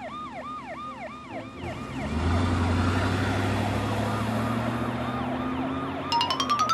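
Emergency-vehicle siren in a cartoon soundtrack, wailing up and down in quick repeated sweeps, about three a second. About two seconds in, a vehicle engine rumble swells up under it and holds steady, and near the end a quick run of rising beeps sounds.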